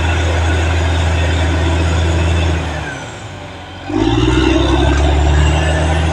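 Caterpillar D6R XL bulldozer's diesel engine running steadily under track clatter; about three seconds in the engine sound drops away for about a second, then comes back strongly and holds.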